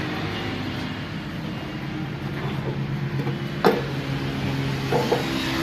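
An engine running steadily, with a sharp metallic clink about two-thirds of the way in and a few lighter clinks of metal near the end.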